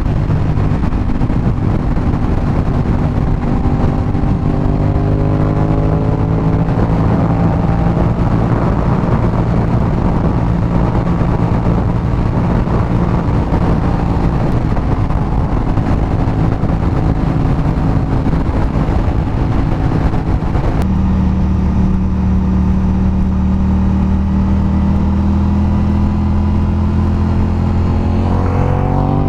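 Aprilia RS 660's parallel-twin engine, fitted with an SC-Project exhaust, heard from the bike while riding: a steady cruising note that switches abruptly to a lower steady note about two-thirds of the way through, then revs climbing near the end.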